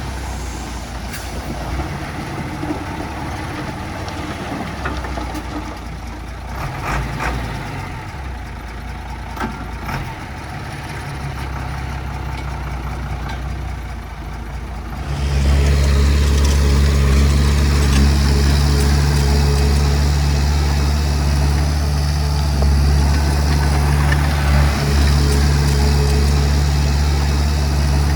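Heavy diesel engine running steadily. About halfway through it suddenly becomes much louder and heavier, as if put under load or brought up close, and then holds steady.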